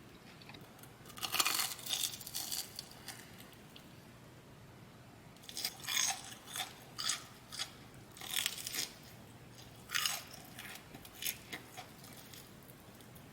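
Close-miked crunching and chewing of food: three bouts of short, crisp crunches, about a second in, again from about halfway, and briefly near the end.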